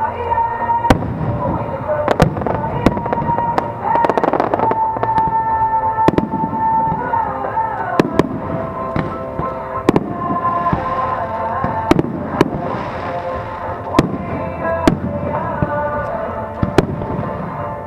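Aerial fireworks bursting, about a dozen sharp bangs at irregular intervals of a second or two, over music playing through loudspeakers with long held notes.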